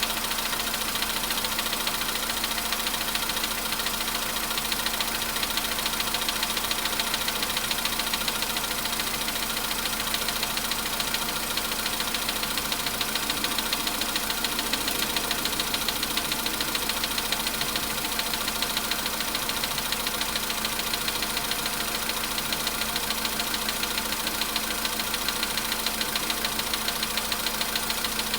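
Volkswagen Polo Sedan engine idling cold, with a rapid, steady knocking running through it: the cold-start engine knock.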